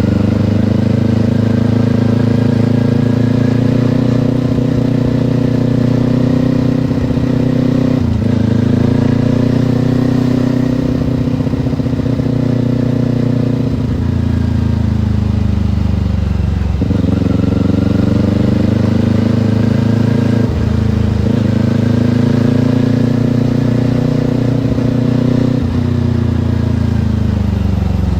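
Kawasaki Ninja parallel-twin motorcycle engine running under way. Its pitch rises and falls, breaking off sharply about five times as the rider shifts gears or rolls off the throttle.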